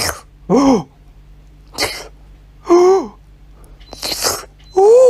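A cat licking and biting an ice pop: short wet, hissing slurps alternating with three brief cries that rise and then fall in pitch.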